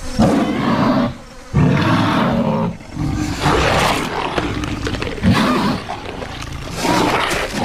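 Carnotaurus creature sound effect: a string of deep dinosaur roars and growls. Two roars of about a second each come first, with short breaks between them, then a longer unbroken stretch of roaring.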